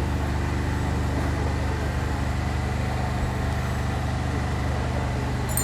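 Steady, even hum of an engine running, with no change in speed.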